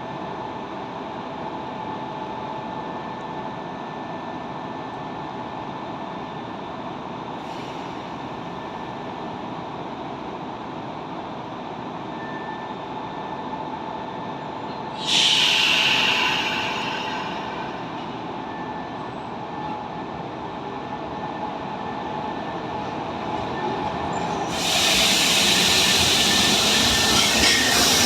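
Electric train noise, most likely the Nankai 3000 series set: a steady rumble and hum, then a sudden hiss about halfway that fades over a couple of seconds. The rail noise rises sharply near the end as the train comes close, with some wheel squeal.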